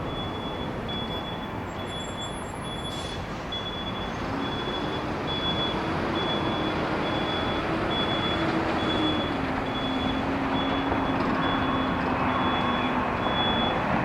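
Jet airliner engines running as a departing aircraft passes, the rumble growing louder about four seconds in, with a low engine tone shifting in pitch midway. A short high beep repeats at an even pace throughout.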